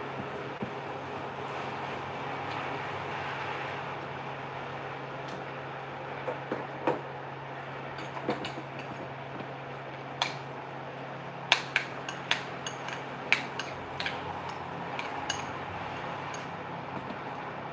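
Dishes and cutlery clinking, a scatter of sharp knocks and clinks through the middle, over a steady hiss and low hum.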